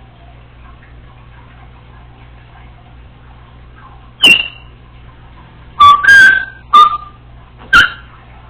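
Congo African grey parrot giving four short, sharp, very loud calls about halfway through, the second one longer than the rest, over a faint steady room hum.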